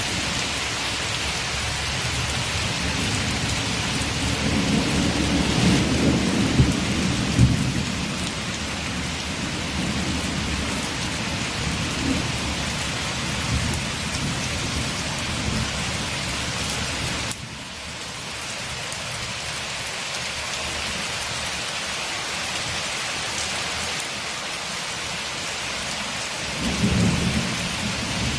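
Steady heavy rain falling on a window, an even hiss, with low rolling thunder that swells for several seconds a few seconds in and rumbles briefly again near the end.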